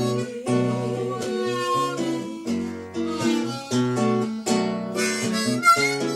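Acoustic guitar strumming chords while a harmonica plays a sustained melody line over it, in an instrumental break between sung verses.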